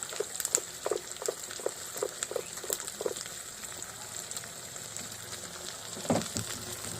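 Onion, capsicum and spice paste sizzling steadily in hot oil in a pan. A run of light, evenly spaced knocks, about three a second, sounds over the first three seconds, and one louder knock comes about six seconds in.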